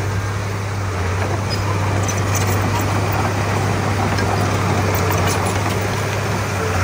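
Komatsu D31P bulldozer's diesel engine running steadily with a low, even hum.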